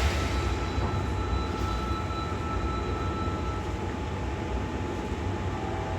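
Hankyu 3300 series commuter train, heard from inside the car just after its doors close: a steady low rumble with faint steady whines as it sets off from the platform.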